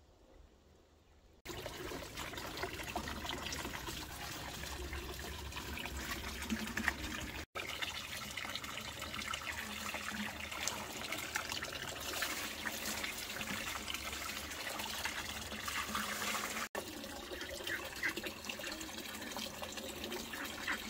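Running water, a steady splashing rush that starts suddenly about a second and a half in and drops out briefly twice.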